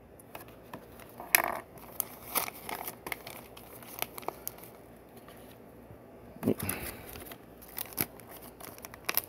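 Small plastic Lego pieces being sorted and picked through, with a plastic parts bag crinkling: scattered light clicks and short rustles, with two louder rustles about a second and a half in and near two-thirds of the way through.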